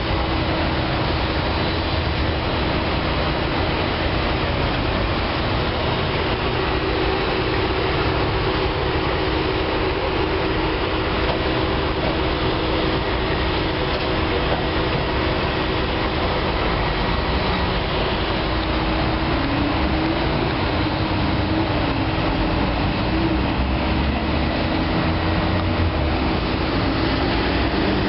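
Ceccato Ginga WD 240 rollover car wash machine running: a steady rush of mechanical and water noise with a constant hum. A wavering tone joins in over the last several seconds.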